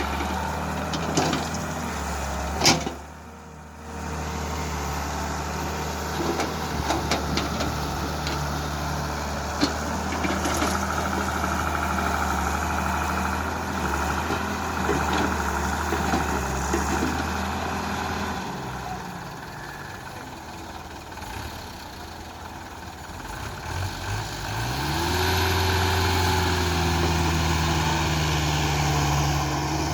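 Heavy diesel engines of backhoe loaders and a dump truck running steadily. A sharp knock comes about three seconds in, and near the end an engine revs up and holds at higher revs.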